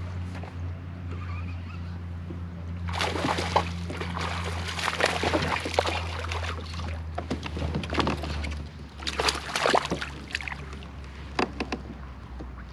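Steady low hum of the Old Town Autopilot 136 kayak's electric trolling motor, which stops about two-thirds of the way through. From about three seconds in, irregular water splashing and sloshing with sharp clicks and knocks.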